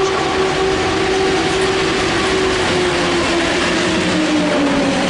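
A train running close by, loud and steady, with a motor whine that slowly falls in pitch.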